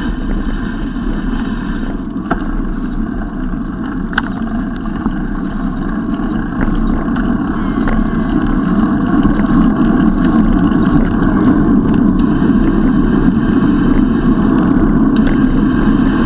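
Steady wind rumble on the microphone of a camera carried on a moving bicycle, growing louder about halfway through, with a couple of faint clicks.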